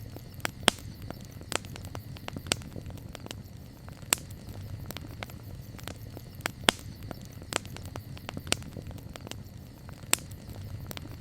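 Campfire burning, its wood crackling with irregular sharp pops, several of them loud, over a steady low rumble.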